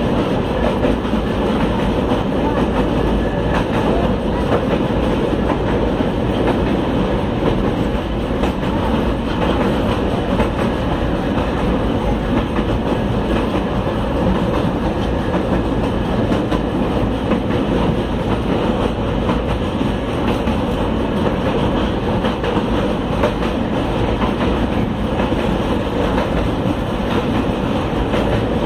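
Passenger train running steadily across a steel girder rail bridge, heard from aboard: a continuous loud rumble of wheels on rails.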